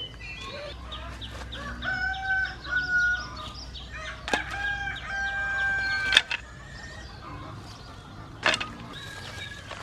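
A rooster crowing, two long calls one after the other, with a few sharp knocks in between and after.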